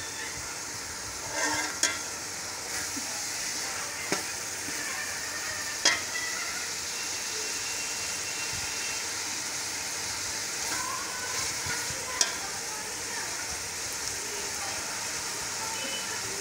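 Minced meat with spices and a little water sizzling in a pot while a steel spatula stirs and turns it, with a few sharp clicks of the spatula against the pot. This is the bhuna stage, where the masala and qeema are fried down together.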